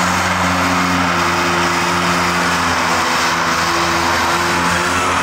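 Car engine held at high, steady revs, with a broad hiss underneath.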